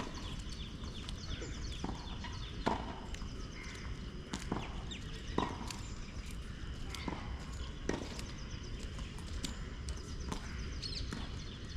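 Tennis balls being struck and bouncing on a court: sharp knocks at irregular intervals, roughly one a second, over a steady low background hum.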